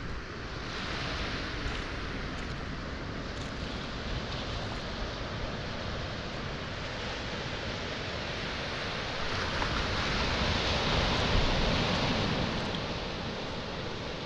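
Sea waves washing onto a pebble and boulder shore at high tide, a steady surf hiss with one wave swelling up about nine seconds in and easing off a few seconds later.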